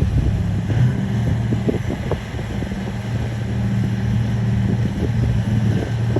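Heavy diesel engine of an earthmoving machine running steadily at a low, even pitch, with a few short knocks over it.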